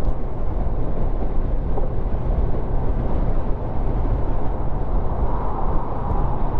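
Motorcycle riding at a steady road speed: the engine's steady hum under an even rush of wind noise on the microphone.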